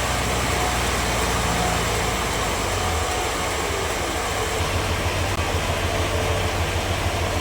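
Sawmill machinery running with a steady low engine hum. About three seconds in, the hum shifts to a faster-pulsing low drone.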